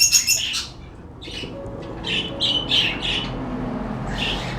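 Small parrots squawking: a quick run of shrill calls at the start, then short harsh squawks repeated every few tenths of a second.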